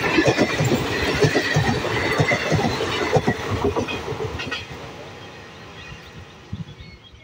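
Passenger train coaches rolling past at speed, their steel wheels clattering over the rail joints. The clatter fades after about four seconds as the last coach draws away.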